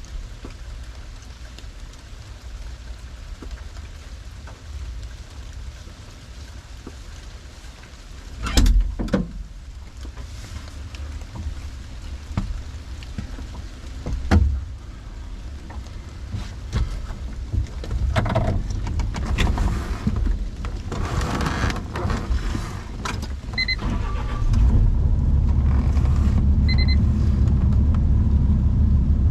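Excavator's diesel engine running, with a few sharp knocks and then a stretch of crunching as the trailer is torn into; the engine gets louder about two thirds of the way through, and two short beeps sound near the end.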